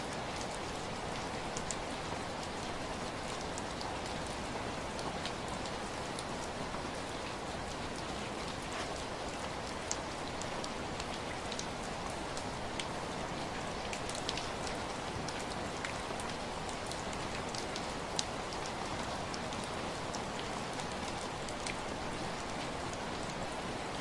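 Steady rain falling, a continuous even hiss with scattered close drop ticks.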